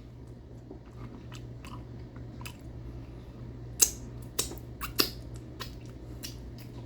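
A man chewing food close to the microphone, with scattered wet mouth clicks and smacks, three louder ones in the middle.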